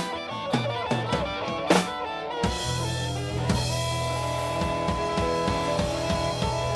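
Live blues band playing an instrumental passage with drum kit, electric guitar and bass. About two and a half seconds in, the sound swells fuller, with a steady bass and held keyboard notes under the drums.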